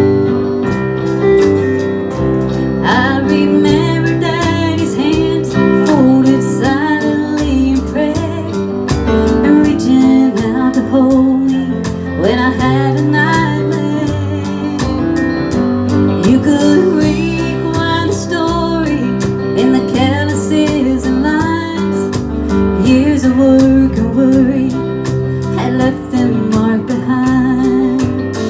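Country band playing live: guitar over moving bass notes and a steady beat, with a wavering melody line on top.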